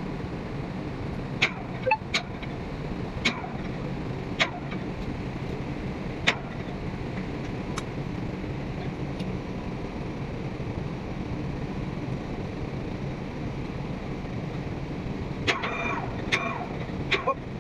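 Steady hum of ship machinery running. A series of sharp clicks and knocks sounds over it, with a short burst of clanks and brief ringing tones near the end.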